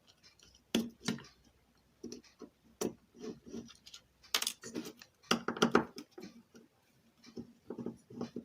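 Irregular clicks, taps and knocks of small hand tools working on a stereo amplifier circuit board, with a denser cluster of knocks about five and a half seconds in.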